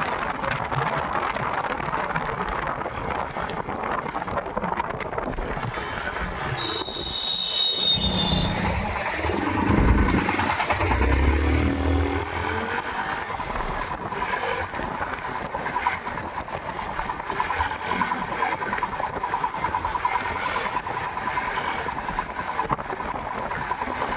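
Yamaha MT-15's single-cylinder engine running while the motorcycle is ridden, mixed with steady road and wind noise. About eight to twelve seconds in a louder low rush swells and fades, and a short high tone sounds just before it.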